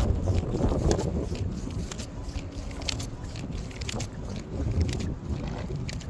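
Blizzard wind buffeting the microphone as an uneven low rumble, strongest in the first second, with scattered sharp ticks throughout.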